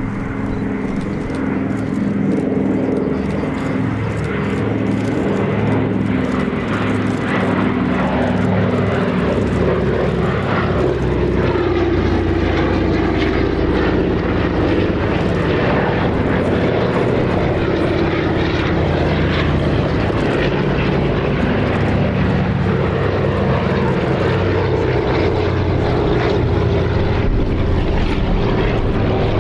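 Several Douglas C-47 and DC-3 twin-engined transports flying past together, their radial piston engines droning as the engine notes beat against each other and slowly shift in pitch.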